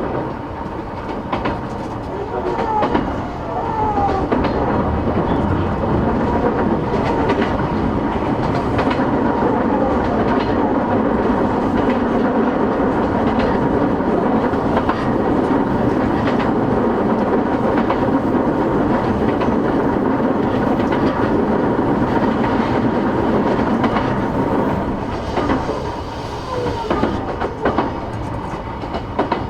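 Running noise heard inside a JR East E233-8000 series electric train: a steady rolling noise with wheels clattering over rail joints. It grows louder a few seconds in and eases again near the end. A faint rising whine from the traction inverter can be heard in the first few seconds.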